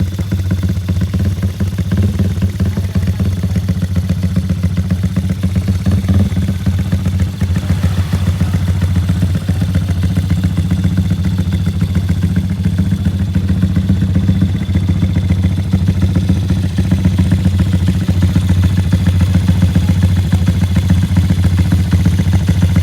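Engine idling steadily through a Dos Muffler competition exhaust, a deep even exhaust note that grows slightly louder in the second half.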